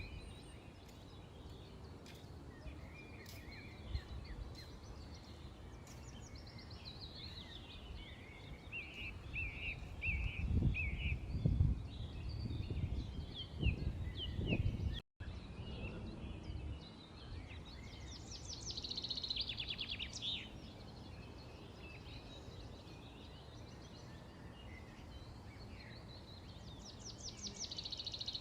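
Small birds chirping and twittering over a low outdoor background, with two fast rattling trills later on. A low rumble swells for a few seconds near the middle, and the sound briefly drops out about halfway through.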